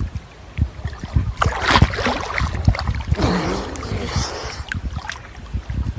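Sea water splashing and sloshing around people wading in shallow water, with two louder surges of splashing and many dull low knocks.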